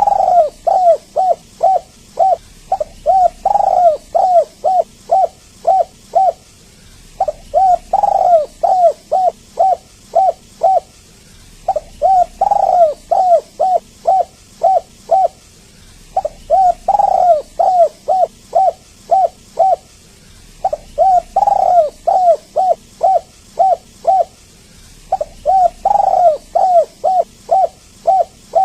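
Spotted dove cooing in repeated phrases about every four and a half seconds, each a longer, louder coo followed by a quick run of about six short coos.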